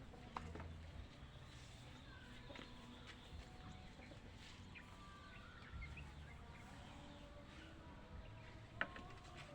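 Faint outdoor ambience with scattered small bird chirps, a few light clicks, and one sharper click shortly before the end.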